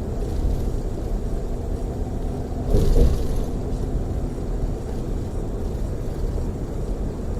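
Steady low rumble of a tour coach running at freeway speed, engine and tyre noise heard from inside the cabin. About three seconds in, a brief louder rush of noise rises over it and fades within about half a second.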